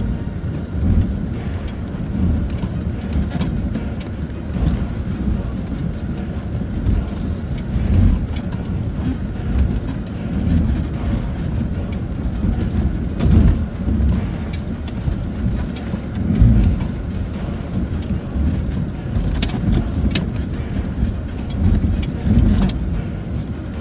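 Inside the cabin of a Land Rover Discovery 4 driving slowly over a rough off-road track: a steady low rumble from the engine and tyres, broken by irregular thumps and knocks as the wheels and suspension take bumps and rocks.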